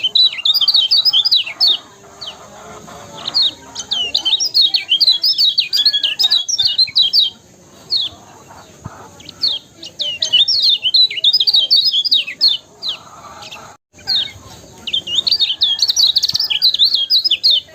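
Kecial kuning, a small yellow white-eye, singing in fast bursts of high, twittering chirps. Four phrases of a few seconds each are broken by short pauses.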